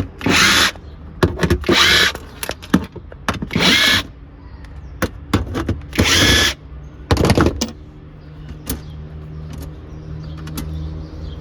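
Cordless drill or screwdriver running in about five short bursts of roughly half a second each, working fasteners out, followed by a steady low hum.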